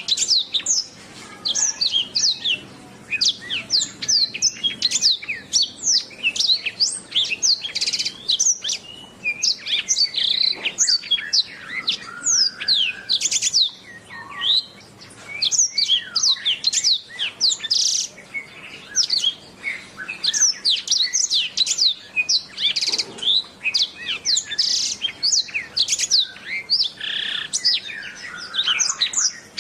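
Domestic canary singing a long, fast song of quick sweeping chirps and trills, with only brief pauses.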